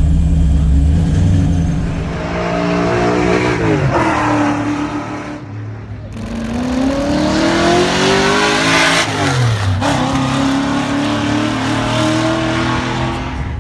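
Ford XF Falcon race car's 302 Windsor V8 accelerating hard. Its pitch climbs and then drops sharply twice as it changes gear.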